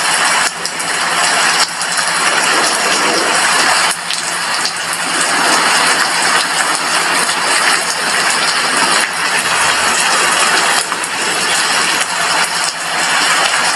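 Heavy rain falling steadily on a glass window, a dense even hiss of drops with faint individual ticks.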